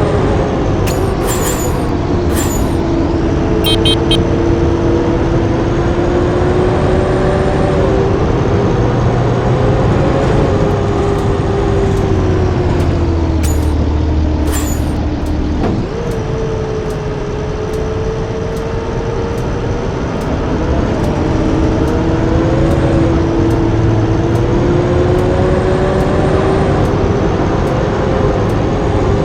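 Blue Bird D3FE bus engine running under way, its pitch slowly rising and falling with the load and dropping sharply about halfway through. A faint regular tick about once a second is heard in the second half.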